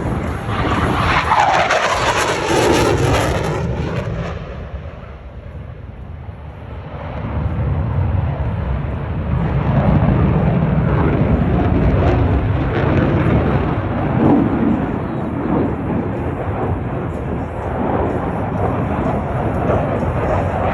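Blue Angels F/A-18 Super Hornet jet roaring past, its pitch falling as it goes by in the first few seconds. The sound dies down briefly, then a second jet rumble builds and holds.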